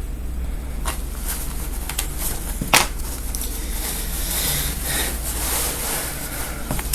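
Scissors cutting through gown fabric: a few sharp snips, the loudest about three seconds in, then a longer stretch of fabric rustling under the blades, over a steady low hum.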